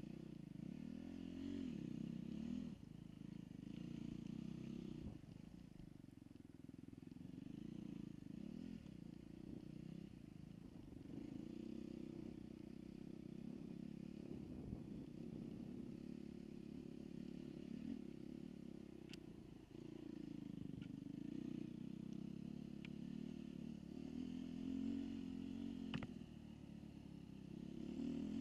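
Dirt bike engine revving up and down as it is ridden over a motocross track, sounding muffled, with a couple of sharp knocks from about two-thirds of the way in.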